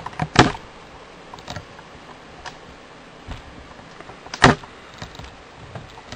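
Plastic parts of a Transformers action figure being handled and moved during transformation: scattered clicks and rattles, with a sharp click just after the start and the loudest one about four and a half seconds in.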